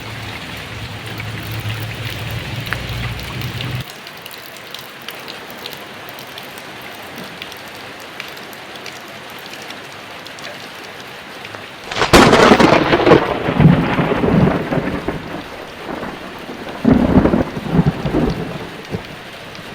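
Heavy rain falling steadily, with a low rumble under it that cuts off about four seconds in. A sudden loud thunderclap about twelve seconds in rumbles on, and a second loud peal of thunder follows a few seconds later.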